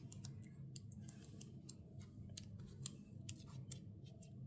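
Faint, irregular light clicks and taps of sticker-book pages and sticker sheets being handled and turned.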